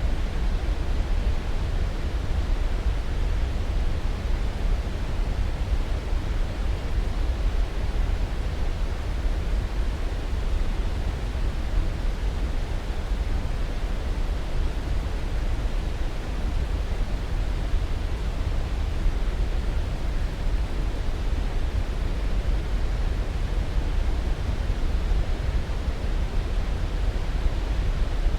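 Steady, unchanging rushing noise from a sleep-aid noise track, deep and heaviest in the bass, thinning toward the highs.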